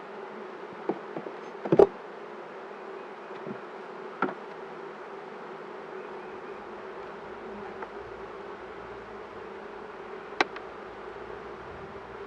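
Honeybees buzzing steadily around an open hive during an inspection, a continuous hum. A few sharp clicks and knocks break through it, the loudest just under two seconds in.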